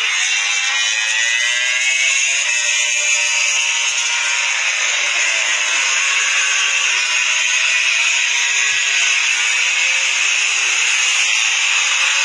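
MotoGP racing motorcycles running at high revs around the circuit, a loud continuous engine howl. Several engines overlap, their pitch slowly rising and falling as the bikes accelerate and pass.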